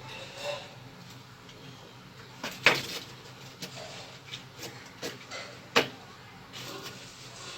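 Scattered sharp knocks and clatter from hand work on plumbing, the two loudest about two and a half seconds in and near six seconds, over a low steady hum.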